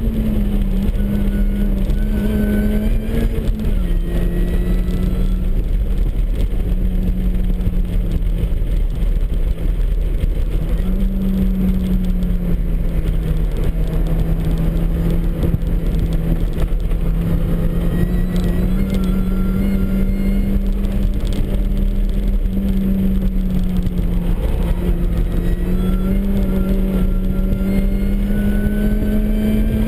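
Supercharged four-cylinder engine of a MINI Cooper S running hard at high revs under load on track, its pitch climbing and then stepping down between gears several times, over steady road and wind noise.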